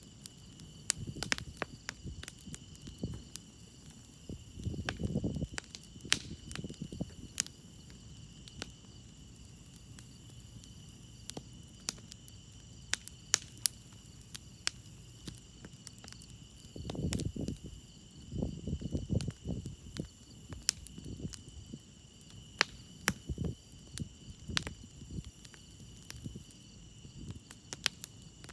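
Campfire crackling with sharp, scattered pops, over the steady high chirring of crickets. A few low rumbling swells come about five seconds in and again past the middle.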